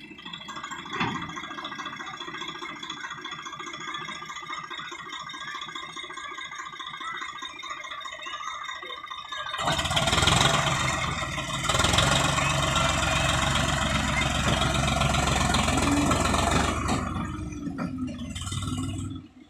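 Swaraj tractor's diesel engine idling with a steady throb, then running noticeably louder from about halfway through for some seven seconds before dropping back.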